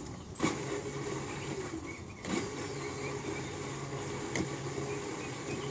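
Electric drive motors and gearboxes of a battery-powered ride-on toy Ford Mustang whirring as the rear wheels spin freely during a rear-wheel-drive test. They cut out and start up again with a click and a brief swoop in pitch about every two seconds.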